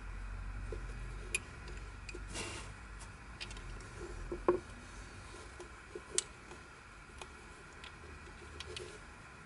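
Plastic pieces of a Yileng Fisher Wheel of Time twisty puzzle clicking and knocking as they are handled during disassembly, with a short scrape about two and a half seconds in, over a low steady hum.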